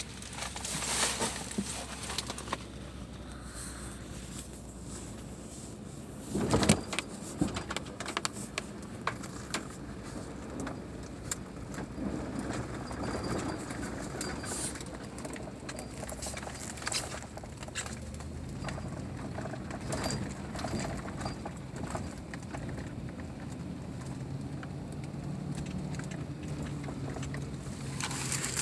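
A vehicle running and moving slowly, its engine a steady low hum that grows more pitched in the second half. Scattered clicks and crackles run over it, with one loud thump about six and a half seconds in.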